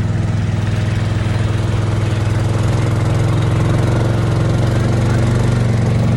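Small boat's motor running steadily underway, a constant low engine drone that grows slightly louder about halfway through.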